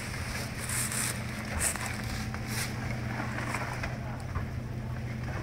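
Off-road 4x4 engine running steadily at low speed on a descending dirt track, a constant low drone, with a few brief swishes of tall grass against the vehicle in the first seconds.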